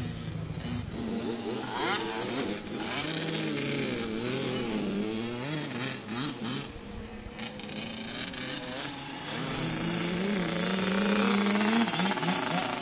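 Dirt bike engine revving up and down, its pitch rising and falling repeatedly with throttle and gear changes, climbing steadily near the end before dropping away.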